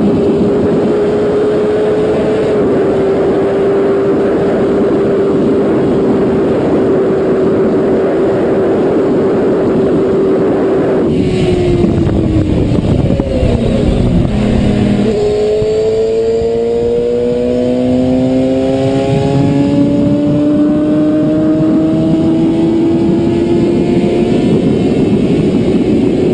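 Motorcycle engine running at a steady cruise under heavy wind rush, then dropping sharply in pitch about eleven seconds in as the bike brakes hard to an emergency stop. From about fifteen seconds the engine note rises slowly as the bike pulls away again.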